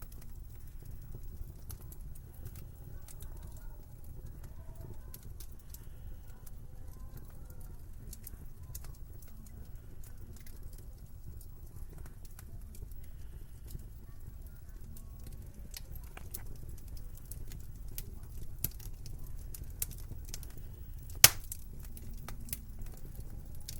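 Wood fire crackling in a fireplace: scattered small pops over a steady low rumble, with one loud sharp pop about 21 seconds in.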